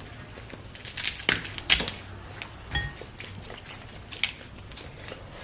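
Seafood shells being cracked and broken open during a seafood boil of crab legs and shrimp: a run of sharp cracks and snaps, thickest in the first three seconds, with a short clink near the middle.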